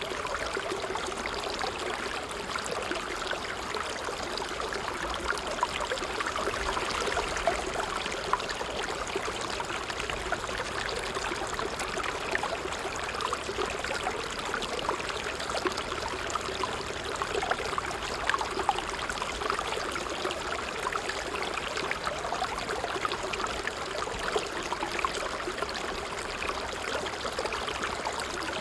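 Water trickling and babbling steadily over stones in a small stream, with many small splashes and droplets.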